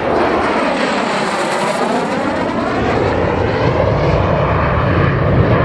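MiG-15UTI jet trainer's turbojet passing low and close in a flyby: a loud jet roar with a sweeping, phasing whoosh that falls and then rises again, and a deeper rumble building about halfway through.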